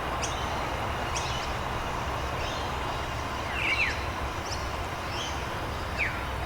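Steady rain hiss with small birds chirping over it: short high chirps throughout, and a few quick falling notes about three and a half seconds in and again near the end.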